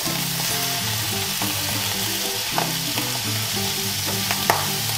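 Rice and vegetables sizzling in a hot wok, a steady hiss, with a few sharp clicks.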